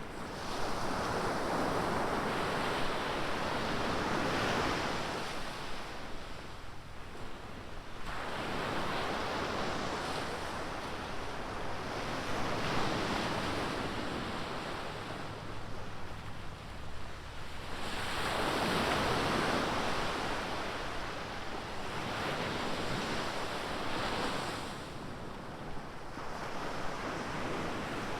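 Ocean surf breaking on a beach, the waves swelling and washing in about every four to six seconds with a steady hiss between, and some wind on the microphone.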